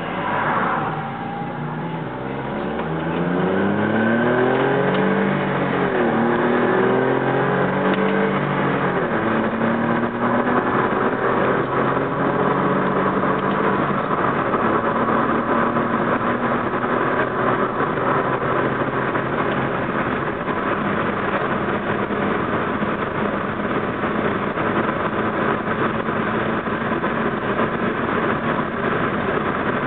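Smart 0.6i turbo three-cylinder engine with a tuned Sportiva exhaust accelerating: the engine note rises, drops at a gear change about five or six seconds in, and rises again. From about ten seconds in it holds a steady engine drone with road noise at speed.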